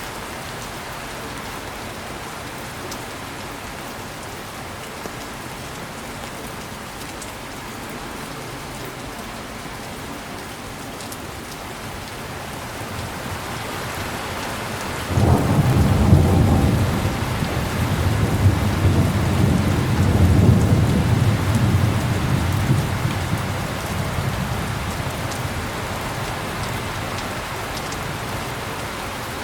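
Steady heavy rain falling, with a clap of thunder about halfway through that breaks suddenly into a loud, deep rumble and rolls on for several seconds before fading back under the rain.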